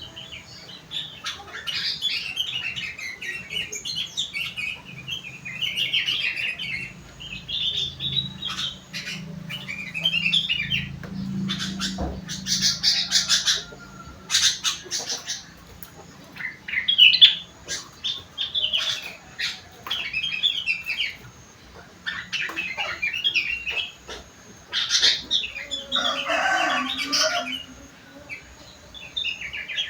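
Sooty-headed bulbul singing in quick chirping phrases that mimic the song of the blue-winged leafbird (cucak wilis). Brief rustling and clicks break in about halfway through and again near the end.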